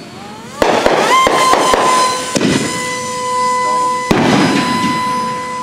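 Fireworks going off: a rapid cluster of sharp bangs and crackling about half a second in, with further bursts around two and four seconds. A steady high whistling tone comes in with a quick upward slide about a second in and holds nearly to the end.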